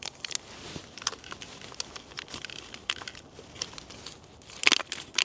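Crinkling of a spice packet being handled: scattered sharp crackles, with a louder burst near the end.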